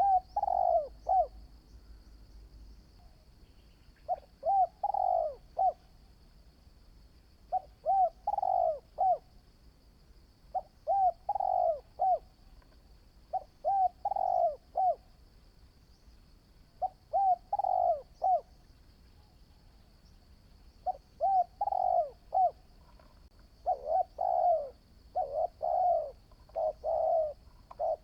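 Spotted dove cooing: phrases of several short coo notes, repeated every few seconds and coming closer together near the end.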